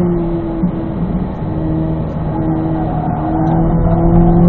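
Sports car's engine running at high revs in second gear through a corner, heard from inside the cabin: a steady engine note that grows louder near the end as the throttle opens.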